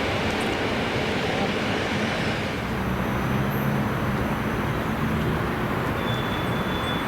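Train running on the rails: a steady rumble, with a low hum coming in about halfway through.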